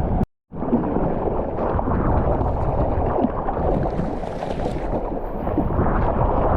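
Strong wind buffeting a GoPro's microphone while water sloshes around it, a steady rough rumble; the sound cuts out completely for a split second near the start, and a higher hiss of water rises briefly around the middle.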